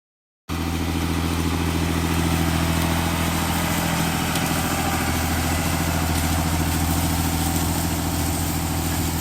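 Tractor engine running steadily with an even low hum, starting abruptly about half a second in after a brief silence.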